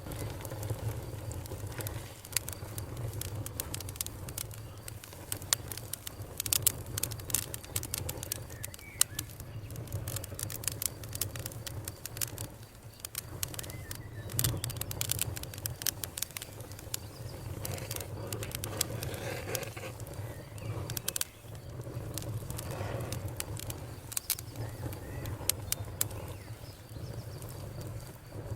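Campfire burning with irregular sharp crackles and pops over a low steady rumble of the flames, the crackling thickest in the middle stretch.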